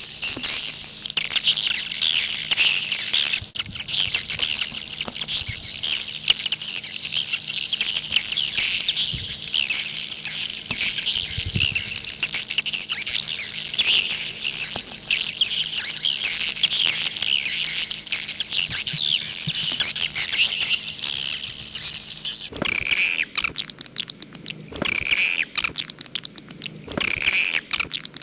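Swiftlet calls, the 'walet jaguar' lure sound: a dense, continuous chatter of high chirps and twitters. About three-quarters of the way through, the chatter thins into separate bursts of calls with short gaps between them.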